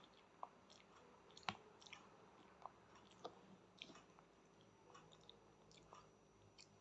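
Faint, scattered wet clicks and smacks of a small child chewing food, with the loudest click about a second and a half in.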